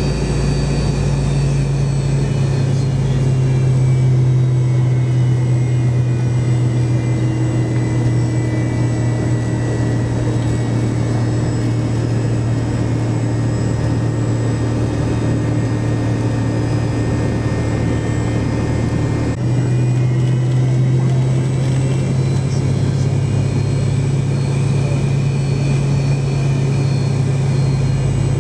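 Rear-mounted Pratt & Whitney JT8D turbofans of a McDonnell Douglas MD-88 heard from a seat beside them inside the cabin, running at low power while the jet taxis after landing. A steady low drone with a faint whine over it that slowly sinks in pitch, then steps back up after a brief dip about two-thirds of the way through.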